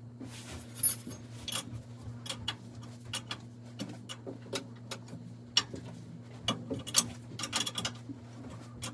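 Irregular metallic clicks and clinks of hand tools working as a boiler fitting is tightened, over a steady low hum.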